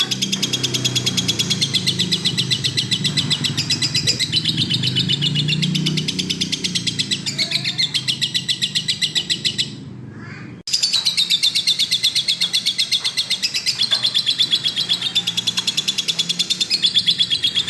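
Lovebird singing in a long, fast, unbroken run of high chirps, about six a second, with a brief drop-out about ten seconds in: the continuous 'gacor' song prized by bird keepers.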